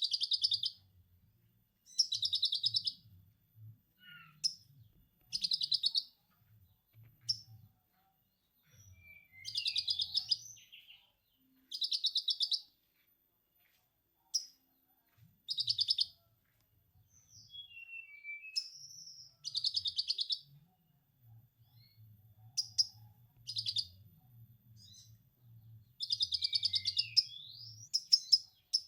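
Caged songbird singing in the lovebird 'ngekek' style: bursts of very rapid, high chattering trill, each lasting about a second and repeated every few seconds, with short chirps and quick gliding notes between them.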